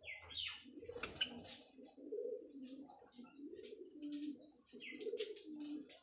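Caged Java sparrows chirping with short, sharp high notes over a repeated low, wavering cooing warble.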